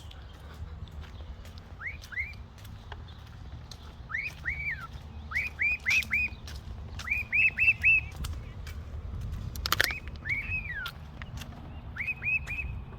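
A bird chirping: short rising-and-falling calls in quick groups of two to four, repeated several times, over a low steady rumble.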